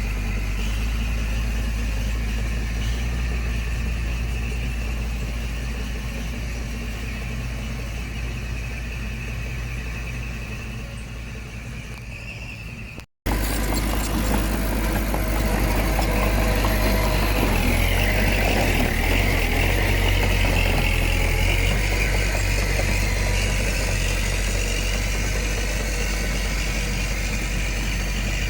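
Diesel engine of heavy earthmoving machinery running steadily. It cuts out for an instant about halfway through, then comes back louder, with a stretch of heavier working a few seconds later.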